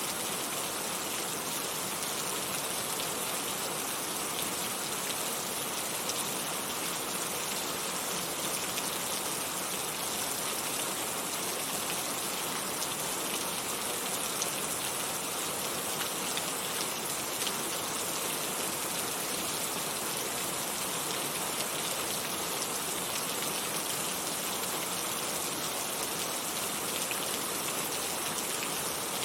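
Heavy rain falling steadily, a dense even hiss with individual drops pattering on surfaces.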